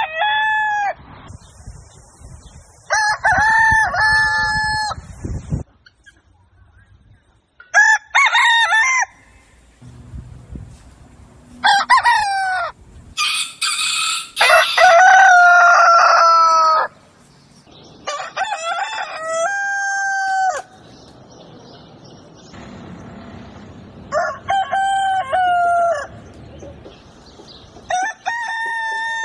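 Roosters crowing again and again, about eight separate crows a few seconds apart, the longest and loudest about halfway through.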